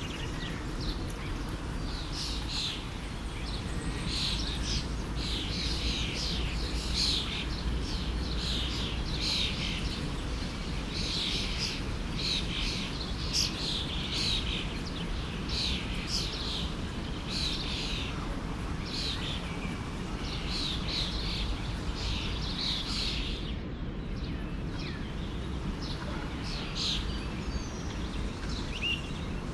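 Many small birds chirping and singing in quick, overlapping bursts over the steady rush of a forest stream.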